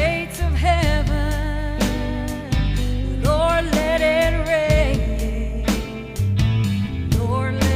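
Gospel song: a woman's voice singing long notes with vibrato over a band with bass, guitar and drums.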